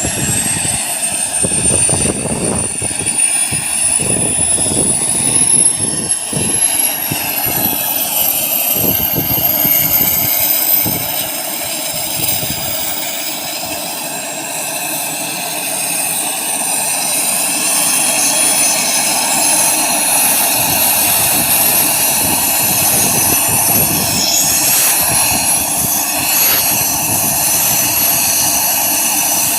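Mi-17 helicopter's twin turboshaft engines running, a high turbine whine rising steadily in pitch over the first dozen seconds and then holding steady, over a continuous rumble with irregular gusty low thumps.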